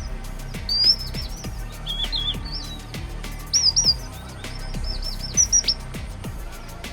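High-pitched chirping calls of a small songbird, short notes in quick runs of three to five, over soft background music with low, falling notes.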